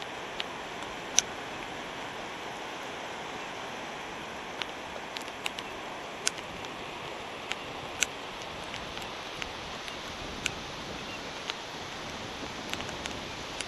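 Light rain: a steady hiss with scattered sharp ticks of raindrops landing close by, irregularly spaced.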